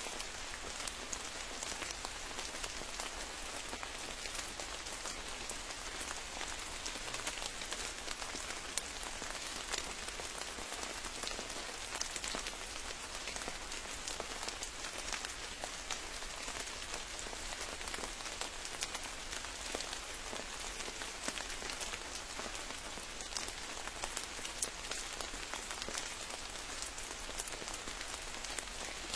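Steady rain falling, with many separate close drop hits heard within the even hiss.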